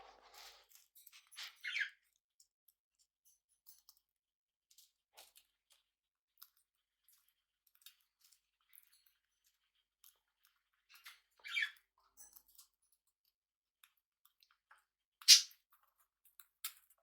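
Small pet parrots pecking and chewing, heard as scattered faint clicks and crunches, with three short chirps, the last and loudest near the end.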